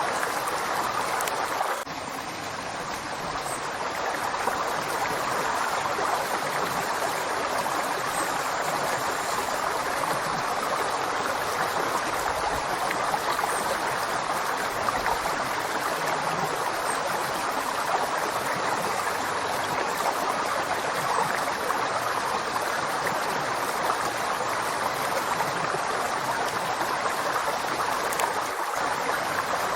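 Flowing river: a steady rush of running water, briefly softer about two seconds in.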